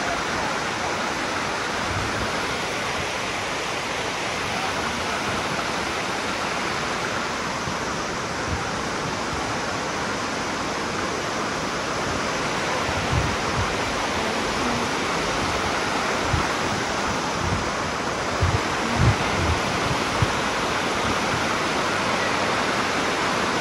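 Dunn's River Falls cascade rushing steadily over the rocks, with a few short low thumps in the second half.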